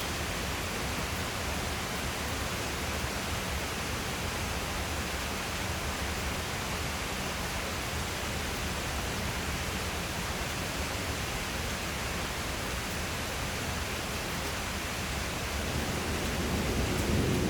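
Steady rain falling, an even hiss. Near the end a low rumble of thunder starts to build.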